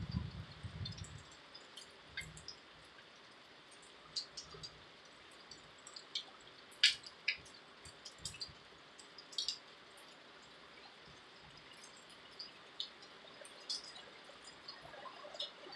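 Raindrops dripping and tapping at irregular intervals, several ticks a second at times, over a faint steady hiss, with a brief low rumble in the first second.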